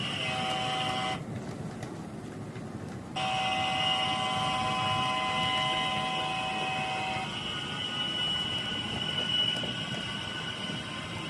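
Sound-decoder audio from HO scale model diesel locomotives: a held, horn-like chord of steady tones over a low engine rumble. The tones break off for about two seconds near the start, come back, and stop about seven seconds in.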